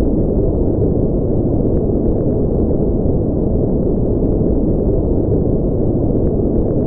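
Generated white-noise track: a steady, unchanging, deep, muffled hiss with its energy low down and nothing high-pitched.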